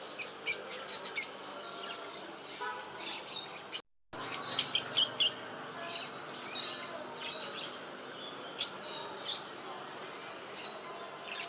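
Small pet birds chirping: two quick runs of short, high chirps, one just after the start and a louder one just past the middle, with scattered single chirps between. The sound drops out for a moment just before the second run.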